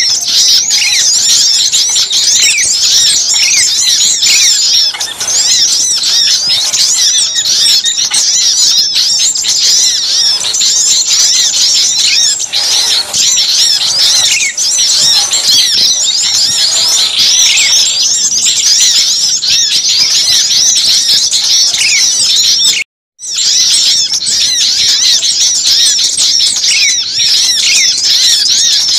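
A loud, dense chorus of many small songbirds chirping and twittering at once in quick, high calls, from a bird-lure recording meant to draw small birds in. It cuts out completely for about half a second about three-quarters of the way through, then carries on.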